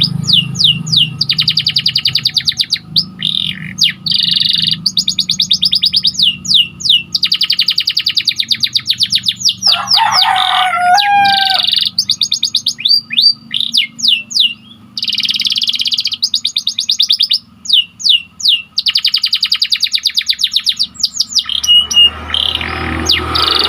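Canary singing: phrases of fast, rapidly repeated trill notes broken by short pauses. About ten seconds in, a lower, gliding warbled phrase.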